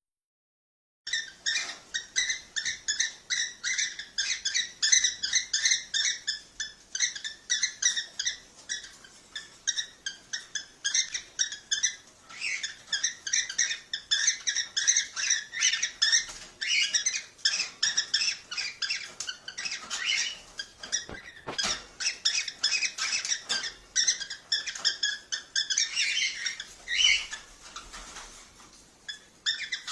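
Cockatiels chirping and calling in quick, dense, high-pitched chirps, several a second, starting about a second in after a brief silence. This is the kind of call played to cockatiels to stimulate them to mate.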